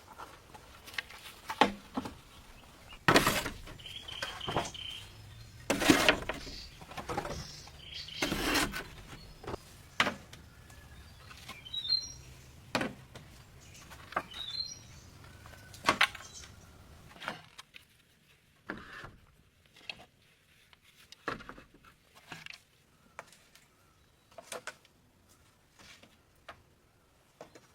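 Irregular sharp knocks and clatters, louder and busier in the first half and sparser and fainter later, with a few short bird chirps around the middle.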